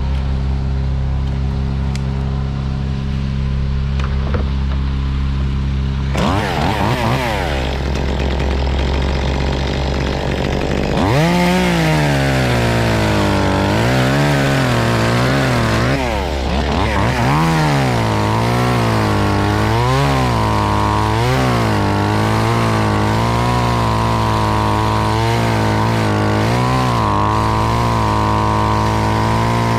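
Chainsaw revving up and down over and over as it cuts into the walnut tree, coming in about six seconds in and running hard from about eleven seconds. Under it runs a steady low hum from another engine.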